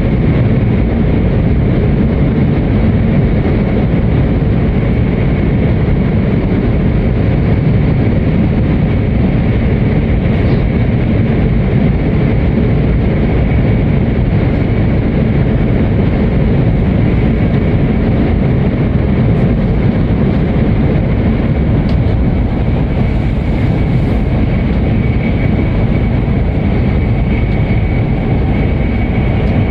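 Hokuriku Shinkansen train running at speed, heard from inside the passenger cabin: a steady, loud low rumble through a tunnel, with a faint steady high whine over it.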